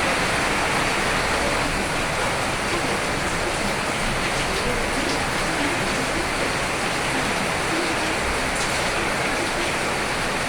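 Steady heavy rain falling, an even rushing hiss with faint scattered drops.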